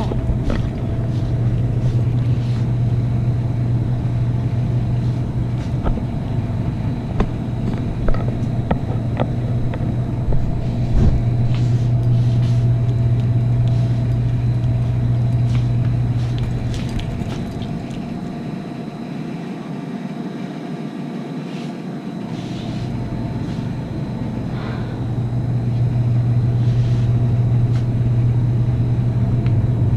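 Car interior noise while driving: a steady low rumble of engine and road. It fades for a few seconds about two-thirds of the way through, then comes back.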